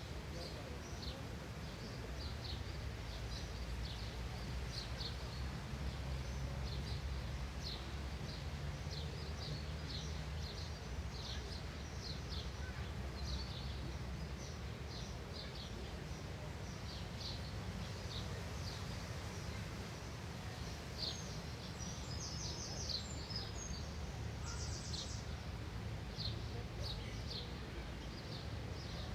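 Outdoor ambience: many short, high bird chirps throughout, with a quick rapid trill a little past the middle, over a steady low rumble.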